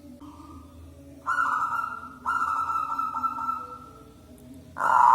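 Zebra dove cooing: a faint note, then two drawn-out notes that fade, and a loud coo starting near the end.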